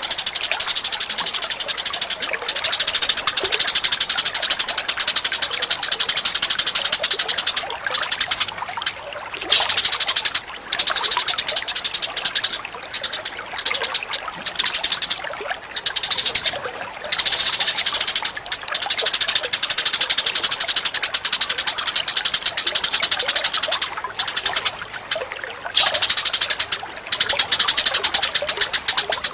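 Recorded bird calls mixed for song tutoring: long runs of very fast, high-pitched chattering trills, steady at first, then broken by short pauses several times.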